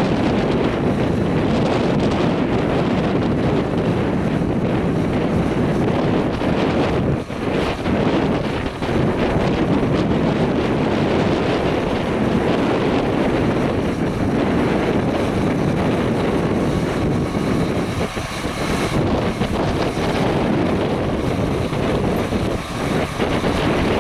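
Heavy wind buffeting the microphone over the steady running of a John Deere 8335R tractor pulling a Grimme SE 170-60 twin-row potato harvester, with a few brief lulls.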